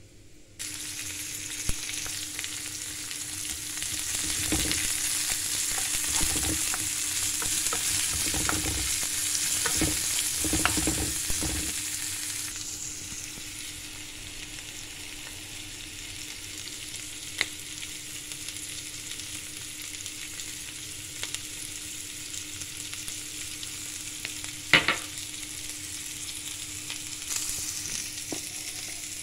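Shredded cabbage and sliced red onion sizzling in oil in a hot pan while being stirred with a wooden spoon. The sizzle starts suddenly about half a second in and is loudest, with scraping strokes, for the first dozen seconds. It then settles to a quieter, steady sizzle, broken by a few sharp clicks.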